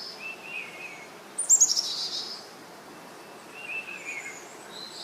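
Wild birds calling: short warbling chirps, then a loud quick run of falling high notes about a second and a half in, and more chirps near the end, over a steady background hiss.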